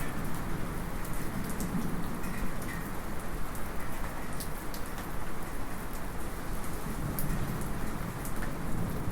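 Steady light rain heard from inside a house, with scattered sharp drips onto metal. A low rumble of distant thunder swells twice, around two seconds in and again near the end.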